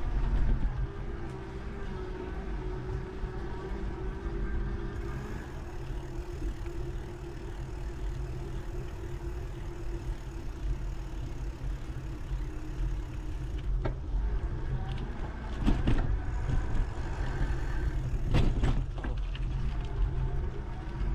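Heavy wind rumble on the GoPro microphone during a bicycle ride, with a faint steady hum and several sharp rattling knocks in the second half.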